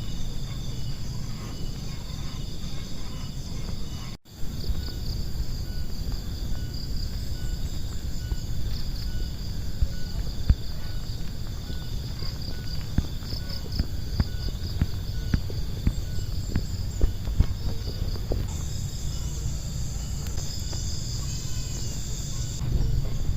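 Insects chirring in a steady pulsing trill over a low rumble of wind or handling noise on the microphone, with a few faint knocks.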